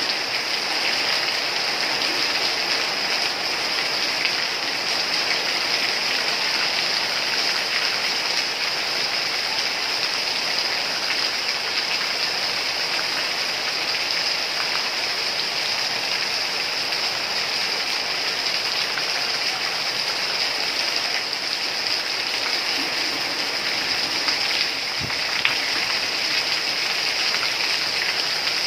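Heavy rain falling steadily, an even hiss of drops on ground, leaves and roofs.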